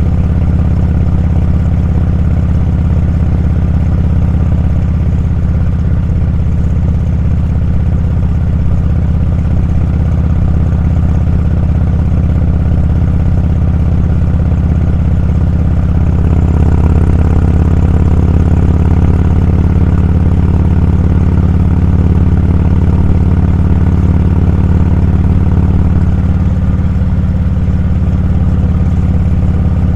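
Motorcycle engine running steadily while riding, getting a little louder and fuller about halfway through.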